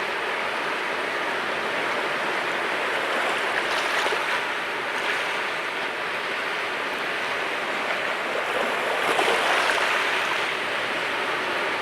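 Sea waves washing onto the shore in a continuous surf wash, swelling louder as a wave breaks about four seconds in and again around nine seconds in.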